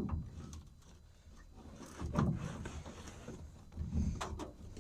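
Faint clicks and soft knocks of hand tools being handled: a socket on an extension worked onto a hard-to-reach bolt.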